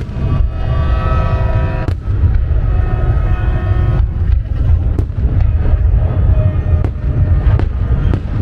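Aerial fireworks going off: a continuous deep rumble of booms with sharp cracks, the cracks coming thicker from about halfway through. A held, steady tone with several pitches sounds over them in the first half and fades out.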